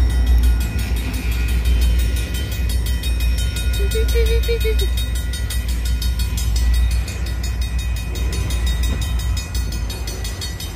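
Freight train passing close by. The trailing Portland & Western diesel locomotive goes past first, then comes the steady low rumble and wheel noise of loaded flatcars rolling by.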